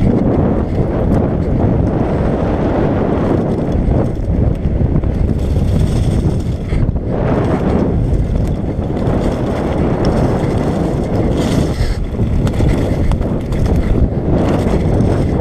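Wind rushing over the microphone while a carbon bicycle rides a forest trail at speed, with the bike rattling over the rough ground.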